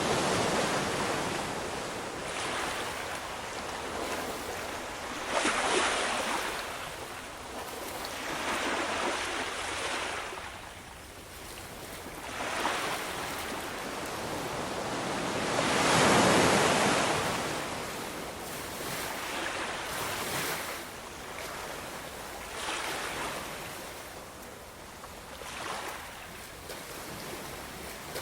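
Ocean waves breaking and washing in, rising and falling in surges every few seconds, the largest swell about halfway through.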